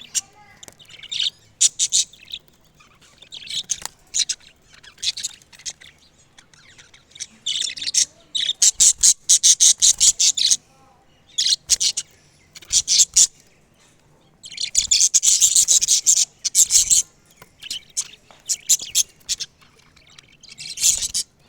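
Parrot chirping in repeated bursts of rapid, high-pitched chirps with short pauses between, the longest runs about nine and fifteen seconds in.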